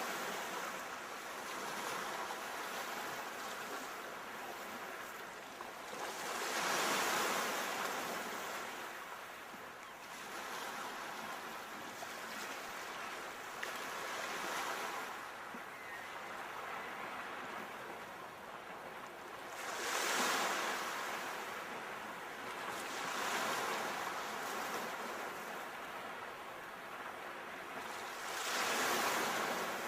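Sea waves breaking and washing on a shore, each wave swelling into a hiss and falling back, with the louder breaks coming every six to eight seconds.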